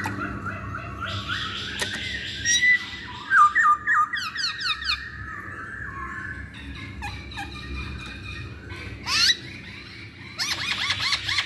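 Masked laughingthrush calling: runs of quick rising whistled notes mixed with harsh, scratchy chattering, with loud bursts of chatter a few seconds in and again near the end.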